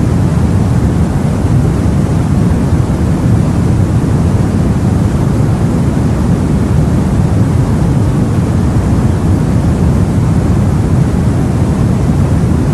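Steady, low rumbling noise of sea and wind, even throughout with no separate splashes, gusts or thunderclaps.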